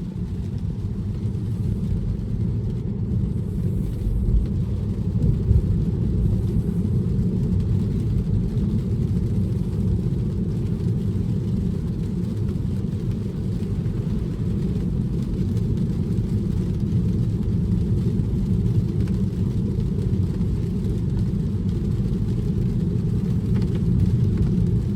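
Steady low road and tyre rumble inside the cabin of a Tesla on FSD Beta, driving on rain-wet roads, with no engine sound.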